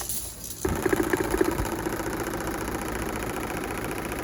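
Vintage Tatung 16-inch table fan starting abruptly about half a second in and running with broken, unbalanced blades: a steady motor hum under a fast, dense rattle and vibration against the surface, strong enough to make the fan creep across it.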